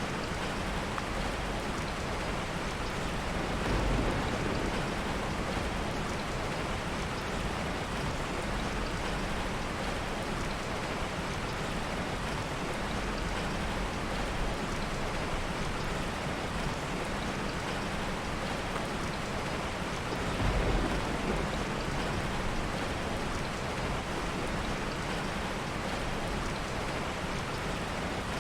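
Steady heavy rain, with two short low rumbles of soft thunder, about four seconds in and again about twenty seconds in.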